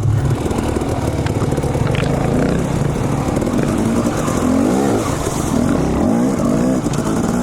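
Two-stroke dirt bike engine running and revving, its pitch rising and falling repeatedly through the second half.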